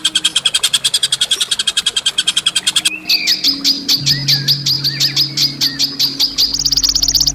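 Songbird calling harshly: a fast rattling trill of sharp notes, about a dozen a second, then after about three seconds a slower series of piercing chips, about six a second, that jump higher near the end. This is a harsh tutor-call recording of the kind played for a white-rumped shama to copy. A steady low hum runs underneath.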